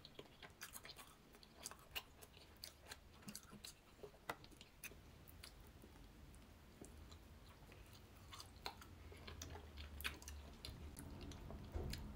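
Faint close-up mouth sounds of a person biting and chewing a soft cinnamon bun: scattered small wet clicks and smacks.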